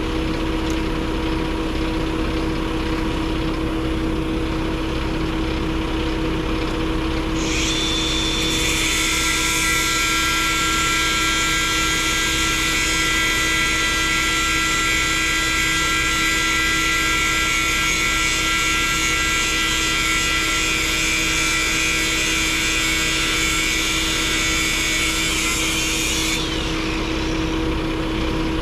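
Truck engine running steadily with a low rumble and hum. About seven seconds in, a higher hissing whine with several steady tones joins it and holds, then cuts off suddenly near the end.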